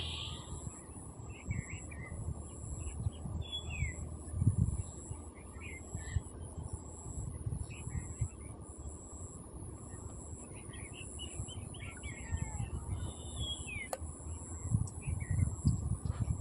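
Small birds chirping in short, scattered calls, over a low uneven rumble with a few louder dull thumps.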